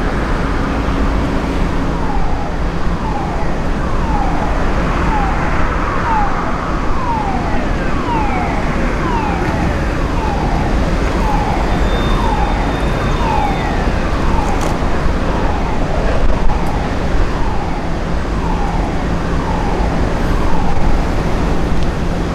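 Steelworks railway rumble with a steady low hum, over which a high falling tone repeats about twice a second for most of the stretch, like a warning signal.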